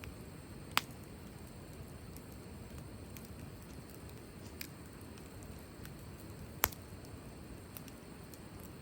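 Wood fire crackling: a steady low rustle of burning with scattered sharp pops, two loud ones about a second in and again near seven seconds.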